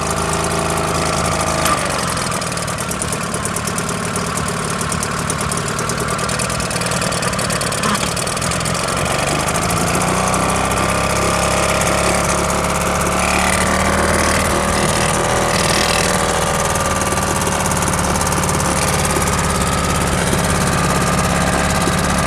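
Small petrol outboard motor idling steadily at tick over, with its fuel turned off so it will run until the carburettor drains dry. Its note rises slightly about ten seconds in and then holds steady.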